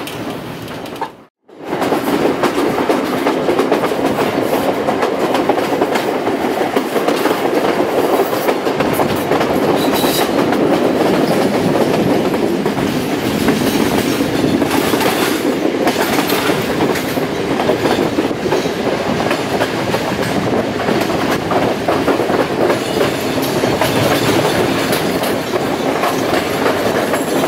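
Passenger train running along the track: a steady rumble with the clatter of the wheels over the rails. The sound cuts out for a moment just over a second in.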